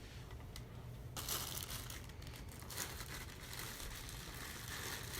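Rustling, crinkling handling noise that starts abruptly about a second in and goes on irregularly, over a low steady hum.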